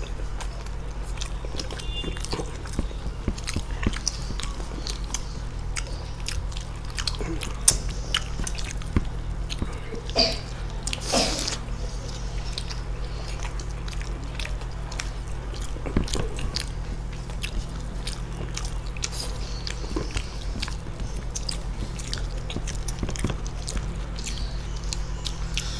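Two people biting and chewing fried chicken momos in chilli gravy close to a tabletop microphone: many small mouth clicks and smacks, with a steady low electrical hum underneath.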